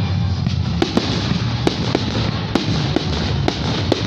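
Fireworks going off: sharp cracks and pops at uneven intervals, roughly two a second, over a continuous crackling hiss, with music playing underneath.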